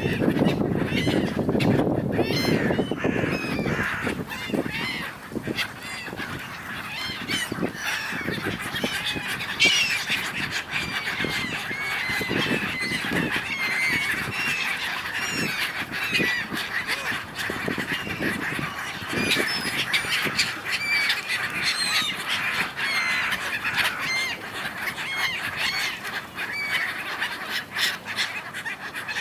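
A large flock of gulls squabbling, dozens of harsh overlapping calls with no break.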